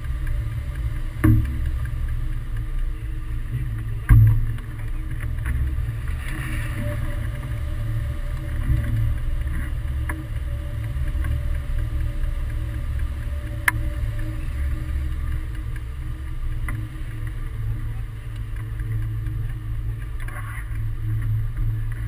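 Wind buffeting the microphone in flight under a hang glider, a steady low rumble. A few sharp knocks break through, the loudest about four seconds in.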